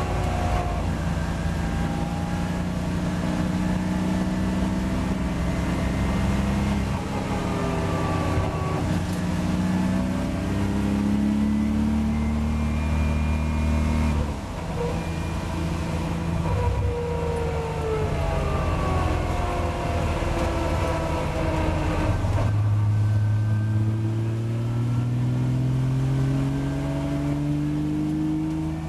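Porsche Boxster race car's flat-six engine heard from inside the cockpit, accelerating at moderate speed. Its pitch climbs and drops at upshifts about halfway through and again about three-quarters of the way in.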